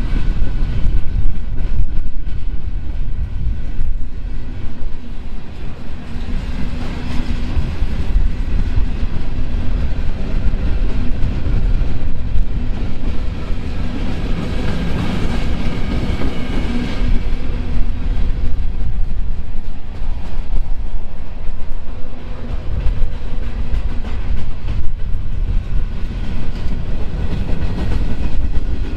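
A train passing close by: a loud, continuous rumble of rolling wheels on the rails, swelling about halfway through.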